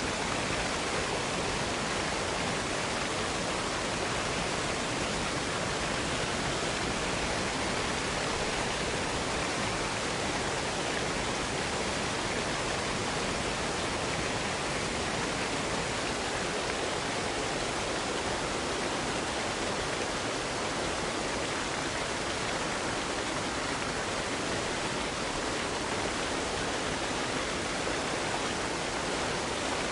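Cascading waterfall, water pouring and splashing in a steady, unbroken rush.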